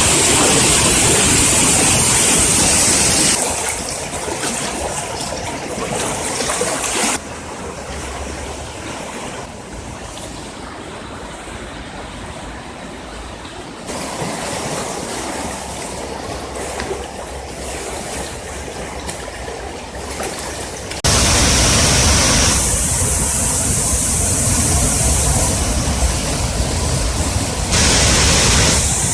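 A rain-swollen creek roaring: a steady rush of fast-flowing floodwater. Its loudness drops and jumps abruptly several times, louder at the start and again in the last third.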